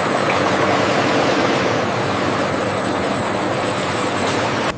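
Steady running noise of factory processing machinery: an even rushing hiss with a low hum and faint steady tones under it.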